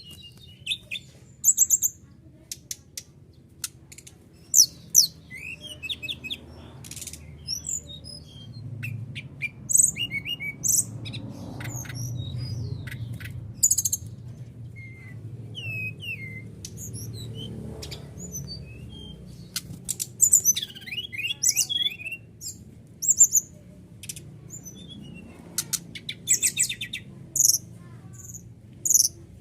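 Songbird calling: a string of short, high chirps and whistled notes in irregular bursts, with a quick run of rattling notes about two-thirds of the way in.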